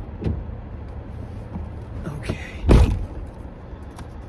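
Thumps and handling noises inside a car over a steady low hum, with one loud thud near the end.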